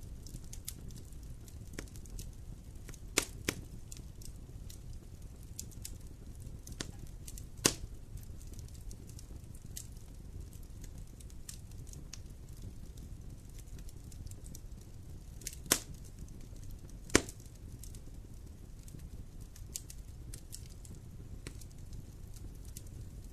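Wood campfire burning: a steady low rush of flames with scattered crackles and a few sharp, loud pops, the loudest about three, eight, sixteen and seventeen seconds in.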